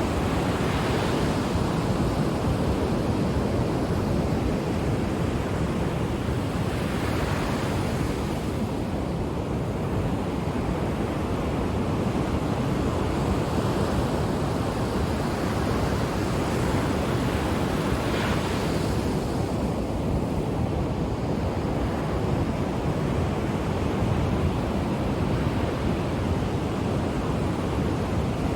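Ocean waves breaking and washing on the shore in a steady rush, with a few swells of brighter surf as waves break, about a second in, around seven seconds and near eighteen seconds. Some wind noise on the microphone.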